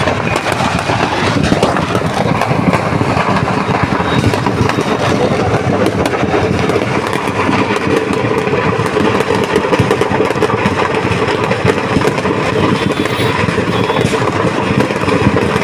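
A firecracker shop's stock burning: a steady, loud rumble thick with rapid crackling and popping.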